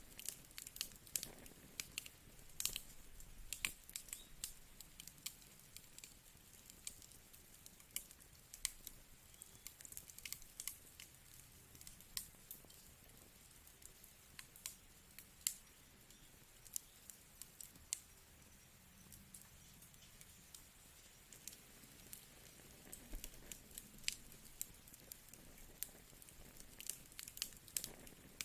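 Wood fire crackling: sharp, irregular pops and snaps over a faint low hiss.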